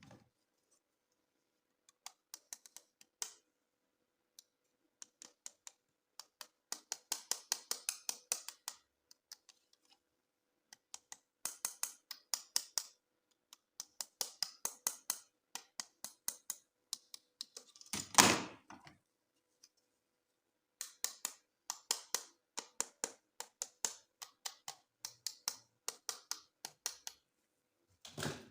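Plastic toy packaging and parts handled by hand: runs of quick clicks and crinkles, with one louder rustle about eighteen seconds in.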